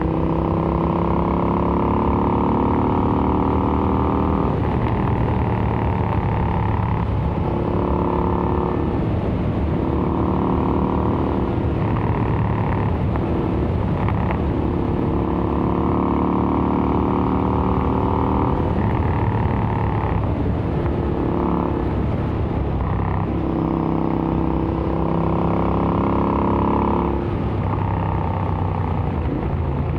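Royal Enfield Interceptor 650's parallel-twin engine, fitted with AEW aftermarket exhausts, running under way as the bike accelerates through the gears. The pitch climbs, then drops at each shift, again and again.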